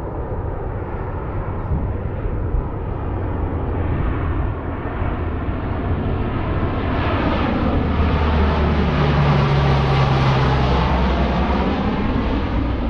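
A four-engine C-130 Hercules turboprop flies past on approach. Its engine and propeller drone grows louder and peaks about nine to ten seconds in, then eases only slightly.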